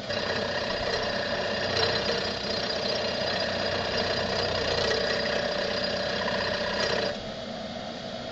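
Knee mill spindle running at about 800 rpm with the cutter gently milling into a wheel, a steady grinding cutting noise. About seven seconds in the cut eases off and only the quieter running spindle is left.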